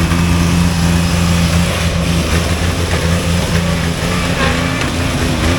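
Riding lawn mower engine running loud and steady, its pitch wavering slightly in the second half.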